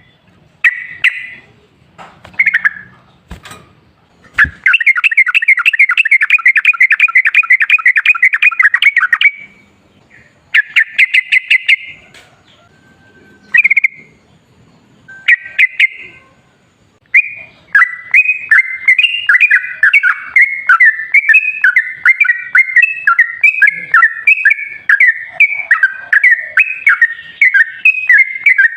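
Sooty-headed bulbul (trucukan) calling and singing, played as a lure recording to get a reluctant bird to sing. Short calls come first, then a long fast trill, a shorter trill, and from about two-thirds of the way in a continuous rapid chatter of notes.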